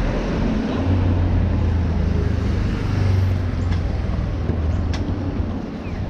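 Street traffic with a motor vehicle's engine running close by: a steady low hum comes in about a second in and fades near the end, over continuous traffic noise.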